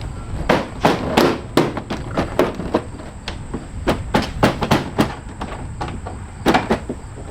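A series of irregular sharp knocks and clanks, a few a second, easing off after about five seconds with two more near the end.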